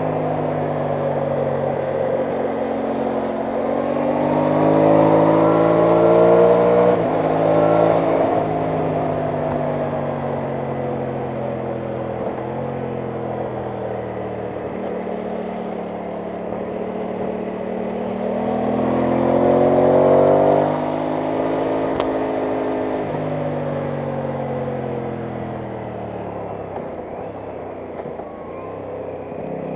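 Aprilia Tuono 660 Factory's parallel-twin engine under way, revs climbing and then dropping sharply at upshifts about 7 and 8 seconds in, easing off, and pulling up again near 20 seconds before another drop and a long slow fall in revs. A steady rush of wind runs underneath, with one sharp click a little after 20 seconds.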